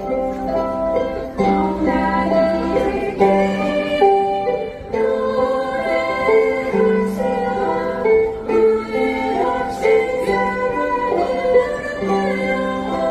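Ukulele ensemble strumming chords through a song, with a steady rhythm and chord changes every second or two.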